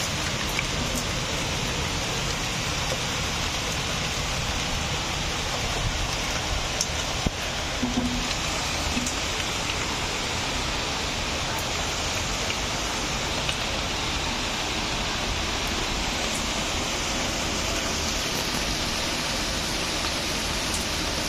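Heavy rain falling steadily, a continuous even hiss of a downpour.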